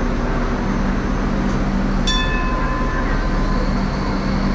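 Hong Kong Light Rail Phase V train running past, a steady rumble with a low hum. About two seconds in there is a single metallic ring that fades within about a second.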